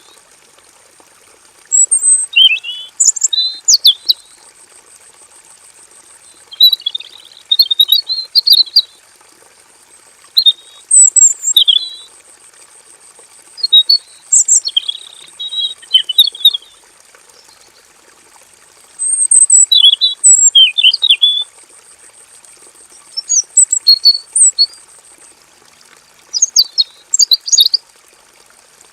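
Male red-billed leiothrix singing: bursts of quick, bright warbled phrases, separated by pauses of a second or two.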